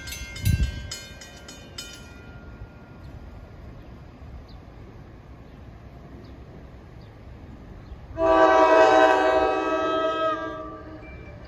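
NJ Transit diesel locomotive's unrestricted multi-chime air horn sounding one long, loud blast about eight seconds in, its notes sagging as it cuts off. Before that, a bell ringing rapidly stops about two seconds in, with a low thump just after the start.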